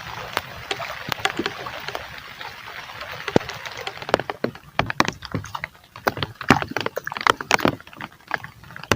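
Steady hiss of heavy rain. About four seconds in it gives way to a rapid, irregular run of close sharp taps and clicks.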